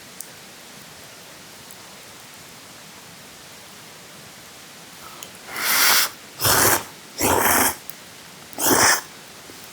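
Steady rain hiss, then four short, loud rasping noises of about half a second each, unevenly spaced over the last few seconds.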